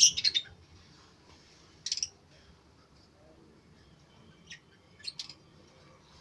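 Birds chirping in short, sharp, high-pitched calls: a quick run of several chirps at the start, the loudest, then more brief chirps about two seconds in and again around four and a half and five seconds in.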